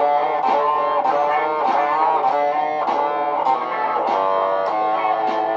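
Layered guitar loops playing: held chord tones under picked notes that repeat about twice a second.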